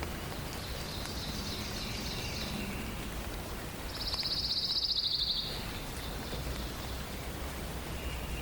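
Songbirds singing over a steady hiss of forest ambience: a high trilled phrase about half a second in, then a louder, fast, even trill about four seconds in that lasts about a second and a half.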